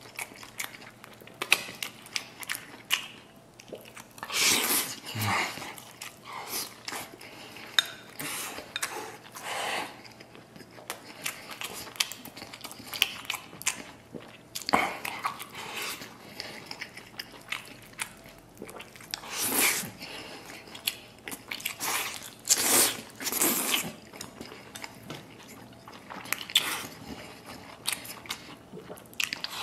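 Close-up chewing and biting: a man eating mouthfuls of red-braised pork and white rice, with many short mouth clicks and several louder bursts scattered through.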